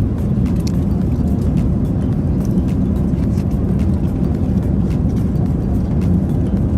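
Steady low rumble of an Airbus A380's cabin in cruise flight, with faint light clicks scattered through.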